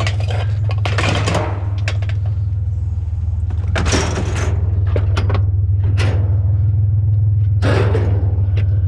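Scrap pieces knocking and clattering as they are shifted around, in several separate bursts, over a steady low rumble.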